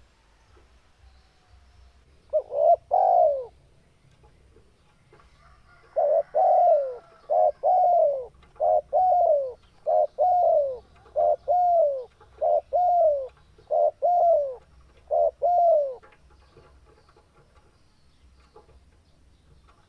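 Spotted dove cooing: a short two-note phrase about two seconds in, then from about six seconds a run of some eight repeated calls, each a short note followed by a longer falling coo, stopping around sixteen seconds.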